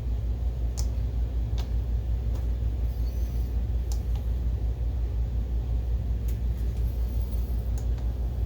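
Steady low rumble from the BenQ HT1085ST projector's cooling fans running just after power-up, with a few faint clicks.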